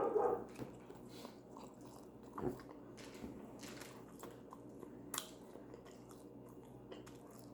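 A person biting into and chewing a folded flour-tortilla quesadilla, with soft, quiet mouth and chewing sounds and a few small crunches and clicks.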